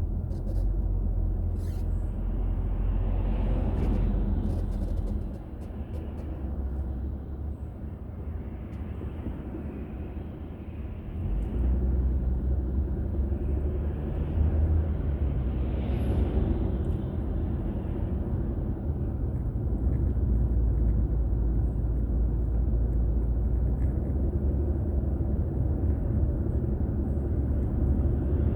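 Car driving, heard from inside the cabin through a dashboard camera: a steady low rumble of road and engine noise. It dips quieter from about five to eleven seconds in, then rises again.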